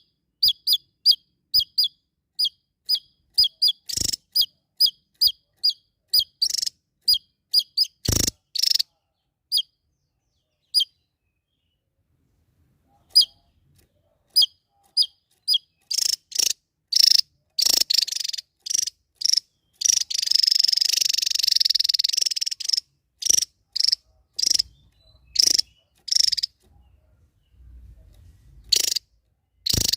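Small songbird calling with short high chirps, about three a second, which thin out after about eight seconds. About twenty seconds in they give way to a fast, unbroken two-second stretch of song, followed by more scattered chirps and short bursts.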